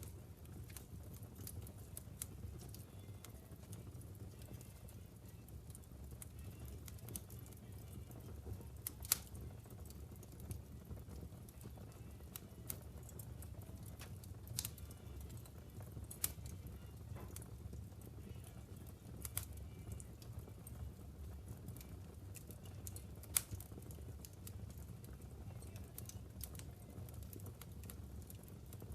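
Wood logs burning in a fireplace: a steady low rumble with irregular sharp crackles and pops, a few of them louder and spaced several seconds apart.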